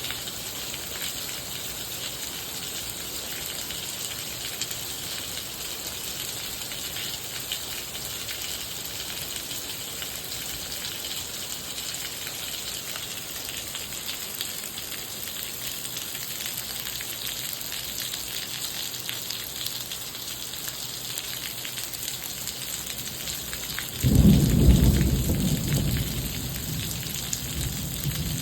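Steady rain falling, a continuous hiss. About three-quarters of the way through, a deep rumble of thunder starts suddenly, becomes the loudest sound, and fades away over a few seconds.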